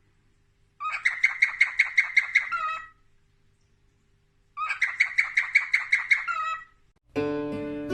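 A parrot calling in two bouts of rapid repeated chirps, about five a second, each bout about two seconds long and ending in a falling note. Plucked-string music starts near the end.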